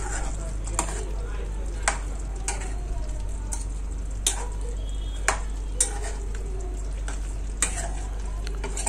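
Chicken pieces sizzling in oil in a pan as a metal spoon stirs them, knocking and scraping against the pan now and then, about seven times, over a steady frying hiss.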